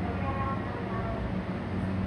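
Hankyu 9300 series electric train standing at the platform with its doors open, a steady low hum coming from the train. A short run of brief tones sounds over about the first second.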